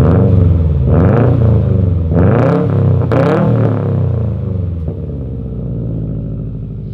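Subaru flat-four engine breathing through a newly fitted Tomei cat-back exhaust, revved about four times in quick succession and then settling back to a steady idle.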